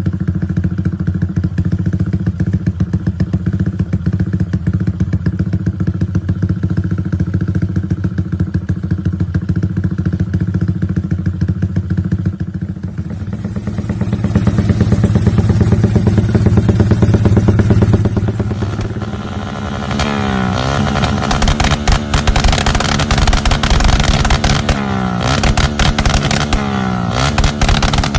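Modified Yamaha Y15ZR's single-cylinder engine running at a steady idle, then revved up louder for a few seconds past the middle. In the last third it is blipped again and again, its pitch dropping and climbing with each rev, with sharp cracks among the revs.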